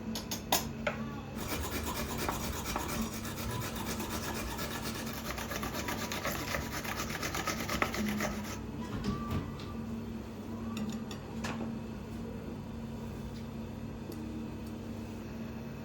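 Rapid rasping, scraping strokes of kitchen food preparation: a few sharp clicks, then several seconds of dense scraping that thins out to a few separate scrapes about halfway through.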